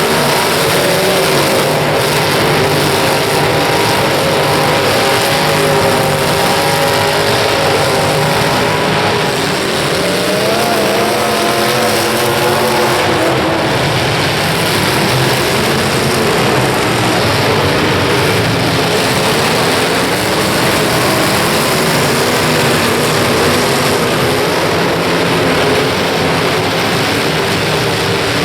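Several demolition derby cars' engines running and revving at once in a loud, steady din, their pitches wavering up and down as the drivers throttle on and off.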